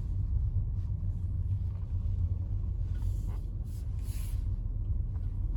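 Low, steady rumble of a car moving slowly, heard from inside its cabin, with a few faint hissing swells partway through.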